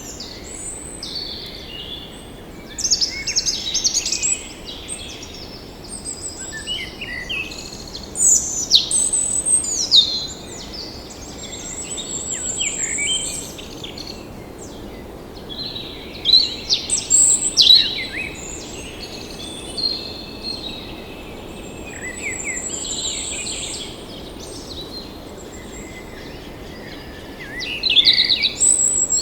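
Several tropical forest birds calling in bursts: quick chirps, falling whistled sweeps and high thin trills, some overlapping, over a steady background hiss of forest ambience.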